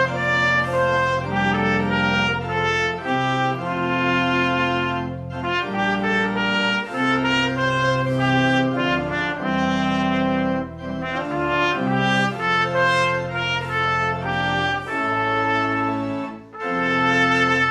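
Brass ensemble playing music in held chords, with brief pauses between phrases.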